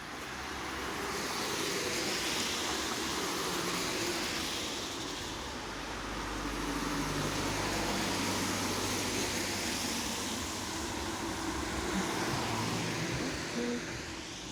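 Vehicles passing by on a rain-wet road: the hiss of tyres on wet asphalt swells and fades twice, with a low engine hum under the second pass.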